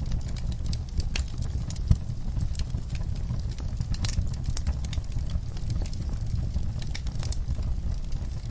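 Wood fire burning in a fireplace: steady crackling with many small snaps over a low rumble, and one sharper pop about two seconds in.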